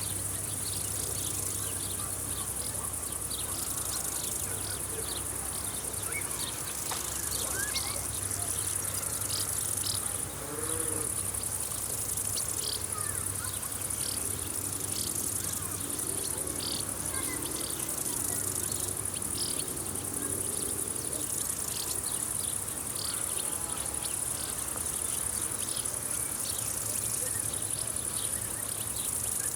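Chorus of field insects trilling steadily at a high pitch, with short chirps repeating irregularly over it.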